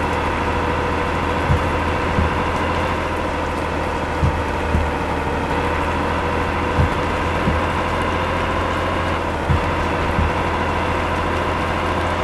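Steady running noise of a vehicle driving on the road, heard from inside, with a low hum and a steady whine. Low thumps come in pairs every two to three seconds.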